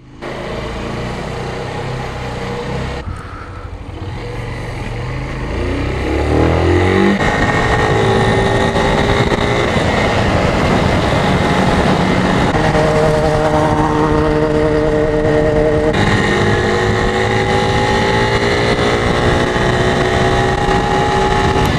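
Suzuki TU250X's single-cylinder engine under way on the road. It accelerates with rising revs for the first several seconds, then holds fairly steady revs with a couple of small changes in pitch, over a constant rushing noise.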